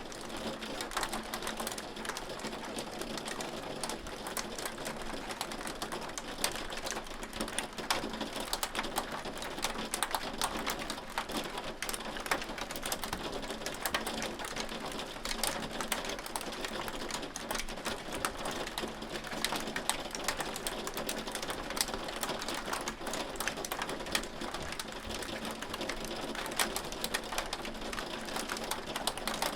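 Hail falling steadily and pelting a hard surface: a dense, unbroken patter of small sharp clicks, with a faint steady hum underneath.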